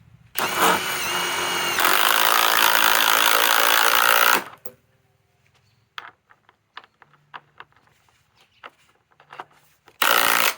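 Cordless impact driver driving a fastener into wood: the motor whines for about a second, then the impact mechanism rattles loudly for about two and a half seconds and stops. A few light clicks follow, and a short second burst from the driver comes near the end.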